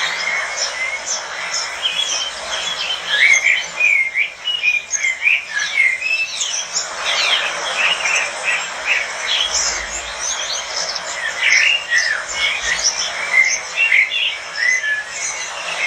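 Many small parrots, lovebirds, chirping and chattering at once: a dense stream of short overlapping high chirps and squeaks.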